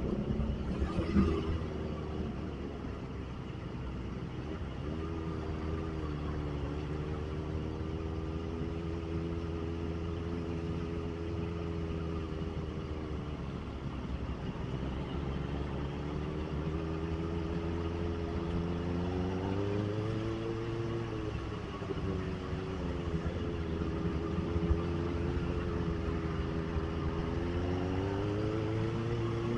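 Kawasaki ZX-25R's 249 cc inline-four engine running under way, its pitch rising and falling slowly with the revs over a steady low hum.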